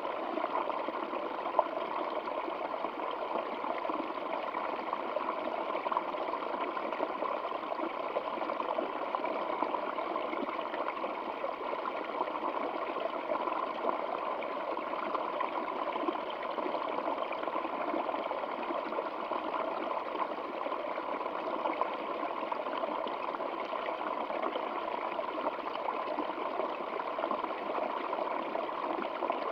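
Stream water flowing and trickling, a steady unbroken rush centred in the middle range.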